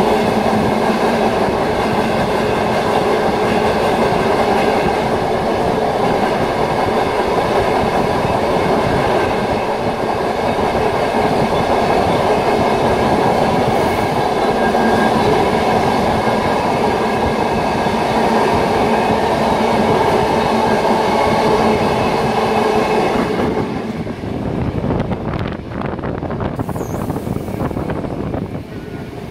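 A steam-hauled passenger train's carriage running along the track: a steady rumble of wheels on rails. About 23 seconds in the sound turns duller and slightly quieter.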